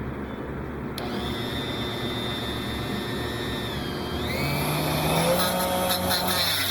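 Dremel rotary tool running with a high whine; about four seconds in its pitch drops and the sound grows rougher and louder as it bites into the resin part being trimmed.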